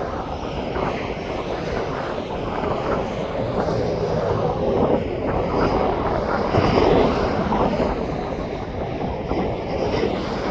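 Airplane engine noise, a steady rushing sound that swells a little about six to seven seconds in.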